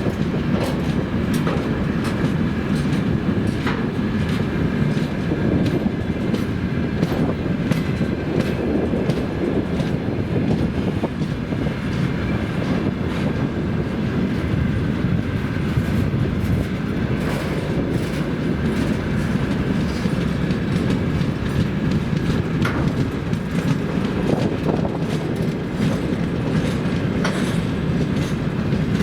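Loaded freight train rolling past at speed, its wagon wheels clicking and clattering over rail joints above a steady heavy rumble. A faint thin squeal from the wheels runs above it.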